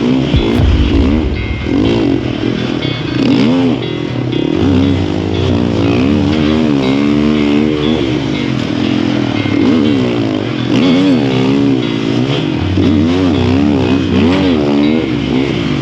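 Snow bike's dirt-bike engine revving up and down over and over as it is ridden around a rough track in the snow, the pitch rising and falling about once a second.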